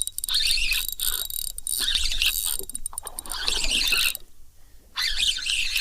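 Fishing reel whirring in bursts as line is cranked in against a hooked trout, with a short pause about four seconds in.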